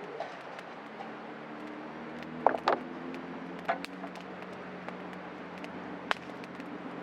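Small wood fire crackling in a portable fire pit: scattered sharp pops and snaps over a steady hiss, with a louder pair of knocks about two and a half seconds in. A low steady hum runs underneath.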